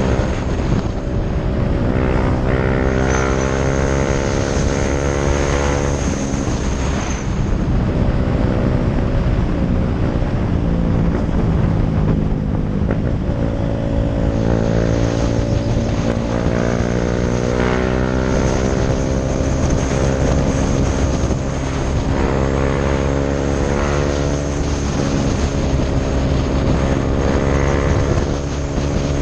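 KTM Duke 390 single-cylinder engine through a Mivv aftermarket exhaust, riding at speed. The engine note rises under acceleration, drops back at the gear changes or when the throttle is eased (around 7 and 22 seconds in), and climbs again, over steady wind rush.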